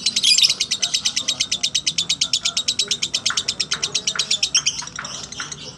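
Lovebird singing its long 'ngekek' chatter: a rapid, even trill of high notes, about a dozen a second, that breaks up into looser separate chirps near the end.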